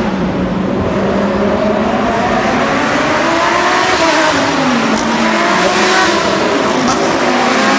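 Lamborghini Super Trofeo race cars' V10 engines passing at racing speed, several engine notes overlapping and rising and falling in pitch as they rev up and shift.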